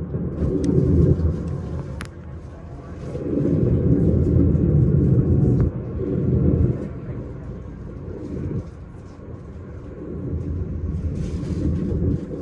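S-Bahn train running, a low rumble that swells and fades several times, with a sharp click about two seconds in.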